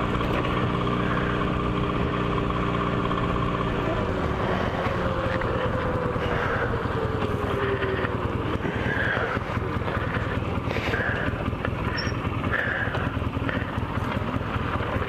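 Motorcycle engine running while riding, with heavy wind and road noise on the microphone. The steady engine note drops away about four seconds in, leaving mostly wind rush with a slowly falling tone.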